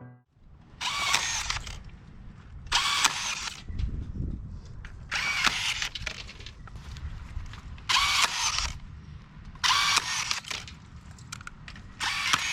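A handheld power tool running in short bursts of under a second, six times at roughly two-second intervals.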